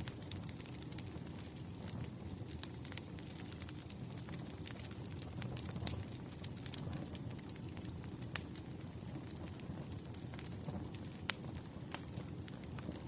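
Firewood burning: a steady low rumble of flames with frequent small crackles and a few louder sharp pops, notably at about eight and eleven seconds in.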